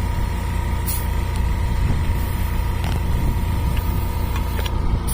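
An engine running steadily with a deep low rumble, a faint steady whine over it, a brief hiss about a second in and a few light clicks.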